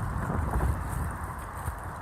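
Wind buffeting the microphone: an uneven low rumble that swells and drops in gusts, over a steady hiss.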